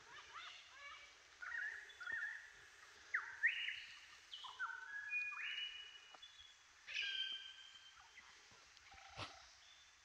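Several Australian bush birds singing, with clear whistled notes, some sliding sharply upward in pitch, overlapping most thickly from about a second and a half in to about seven and a half seconds. A single sharp knock about nine seconds in.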